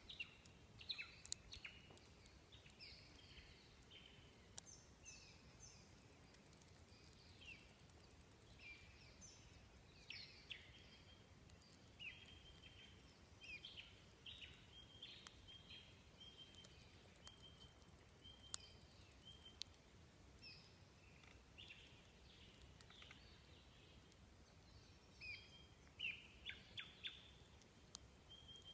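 Faint birdsong: many short high chirps and quick trills, some repeated in runs, over a low steady outdoor hiss.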